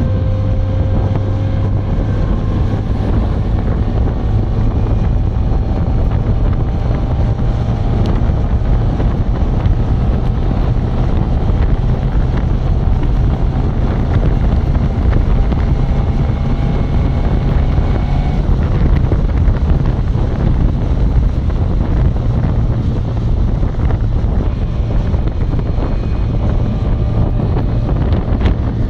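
SR20DE 2.0-litre inline-four in a Datsun Fairlady roadster cruising steadily at highway speed: a constant low engine drone under heavy wind rush on the microphone.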